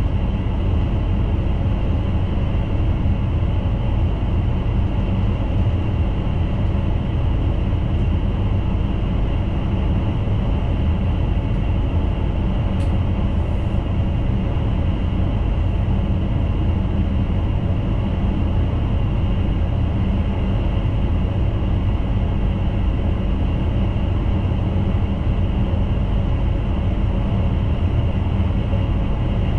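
Intercity train running along the track, heard from inside the driver's cab: a steady low rumble of wheels and running gear, with one sharp click about halfway through.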